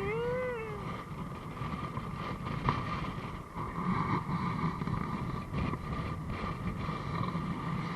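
Strong wind buffeting the microphone in a rough, uneven rumble over a steady mechanical hum. A short vocal sound comes right at the start.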